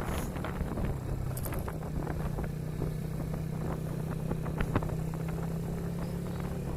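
Motorcycle engine running at a steady pitch while riding, with wind noise and scattered small knocks.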